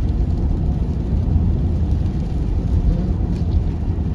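Steady low rumble of a car driving on a snowy highway, heard from inside the cabin: tyre and road noise with the engine running underneath.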